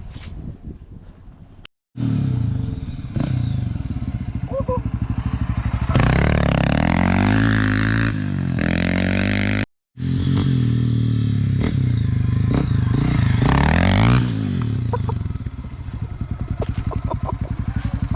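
Dirt bike engine running and revving, its pitch climbing and falling repeatedly. The sound cuts off abruptly twice.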